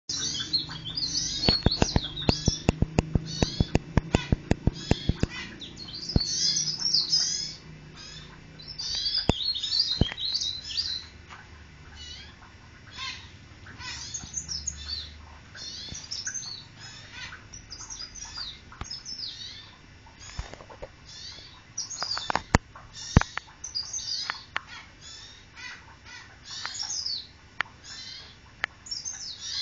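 A blereng (cikrak daun leaf warbler) calling and singing in quick, high, twittering chirps and trills, with short pauses between phrases. Sharp clicks or taps, about four a second, run through the first five seconds, with a few more later on.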